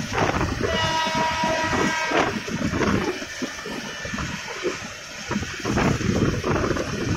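Moving metre-gauge passenger train heard from an open coach window: wheels rumbling and knocking over the track, with wind noise. A steady horn tone sounds for about a second and a half near the start.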